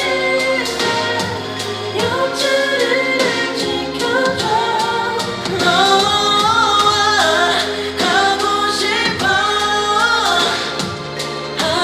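Korean pop-rock band song with male lead vocals and layered harmony vocals over keyboards, bass and drums.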